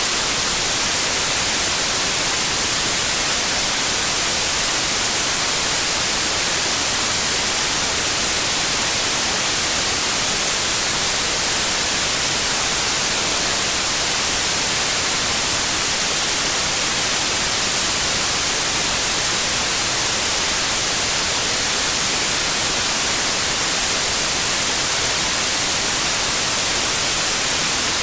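Steady, unchanging white noise, a hiss brightest in the high frequencies, with no sudden sounds or changes in volume.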